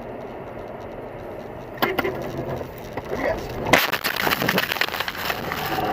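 Car collision: a sharp bang about two seconds in, then a louder crash just before four seconds, followed by crackling and crunching like breaking material.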